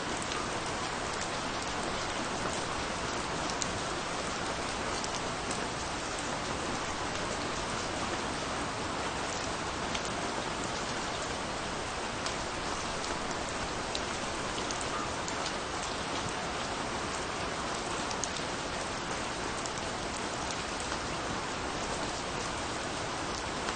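Steady rain falling, with an even hiss and many distinct drops pattering on a surface.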